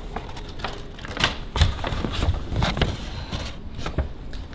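Irregular light taps and rustling as more flour is added to coat raw chicken.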